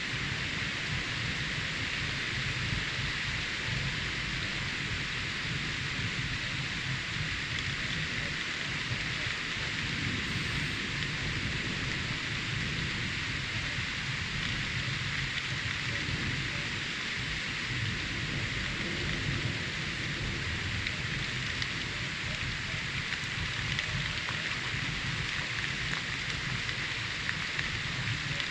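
Steady rain during a thunderstorm, with a continuous low rumble underneath and no sharp claps.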